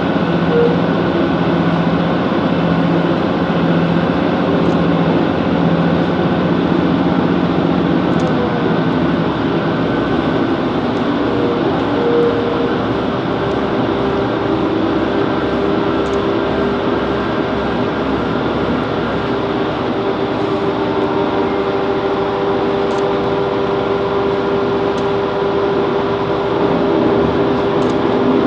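Class 165 Networker Turbo diesel multiple unit running along the line: a steady, loud mix of engine hum and wheel-on-rail noise. The engine tones shift about eight seconds in, and a new tone sets in a few seconds later.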